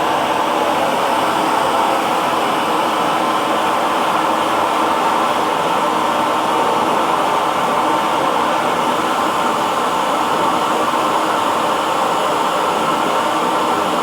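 Hair dryer running steadily: an even, unbroken blowing noise with a faint motor hum in it.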